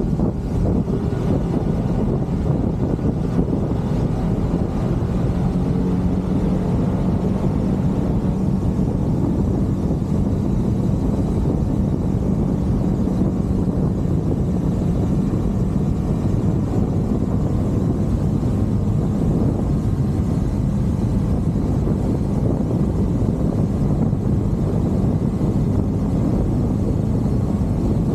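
Motorcycle riding at a steady pace: an even low engine drone mixed with the rush of wind and road noise, with no changes in speed.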